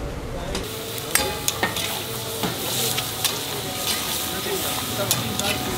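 Mutton karahi sizzling in a blackened wok over an open fire. A utensil is stirring it, clicking and scraping against the pan several times.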